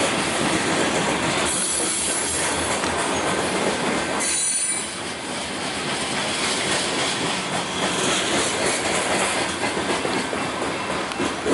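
Loaded coal train's freight cars rolling past on the rails: a steady rumble and clatter of steel wheels, with brief high wheel squeal about four seconds in.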